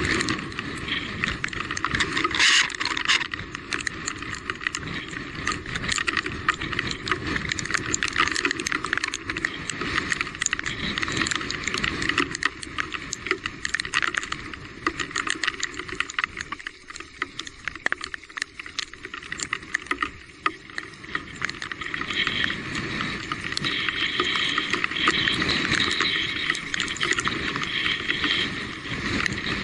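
Electric mountain bike ridden over a rough trail: a steady noisy rush of tyres and wind with many rattles and knocks from the bike. It goes quieter for a few seconds in the middle.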